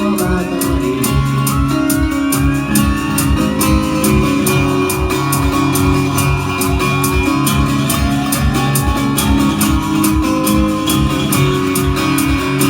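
Live band music: guitar playing sustained and upward-bending notes over a steady drum beat, with no singing.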